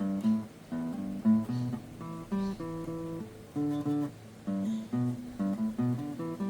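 Steel-string acoustic guitar picked in a blues phrase, a quick run of single notes mixed with notes sounded two or three at a time, each ringing briefly.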